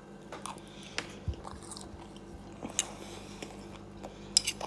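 A person chewing food, with scattered soft mouth clicks and a few sharper clicks near the end, over a faint steady hum.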